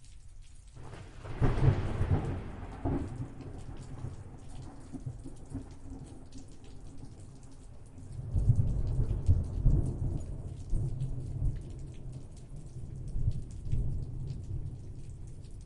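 Thunder over steady rain. A sharp clap about a second in rumbles away, then a second, deeper rolling rumble builds about halfway through and dies away slowly. Scattered raindrops tick throughout.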